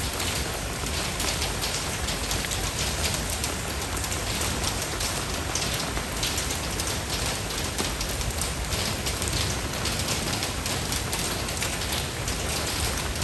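Steady rain falling, a dense even hiss of many drops striking a surface.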